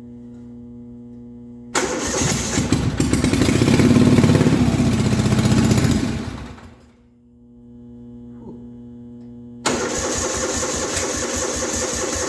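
A 1971 Gravely 450 garden tractor's engine being started on the electric starter twice. About two seconds in it turns over, fires and runs for about four seconds, then dies away. Near the end it turns over again with an even pulsing, over a steady low hum.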